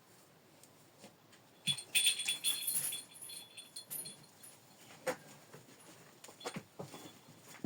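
Small metal bells jingling for about a second, followed by a few scattered soft knocks.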